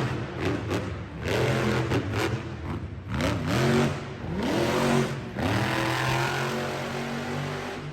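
Monster truck engine revving hard in repeated rising bursts, then held high near the end, echoing through an indoor arena.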